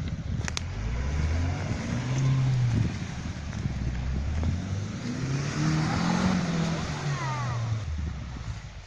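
UAZ Bukhanka van's engine revving hard under load as it pushes through deep mud, its pitch climbing and falling in several surges over a steady noise of churning wheels.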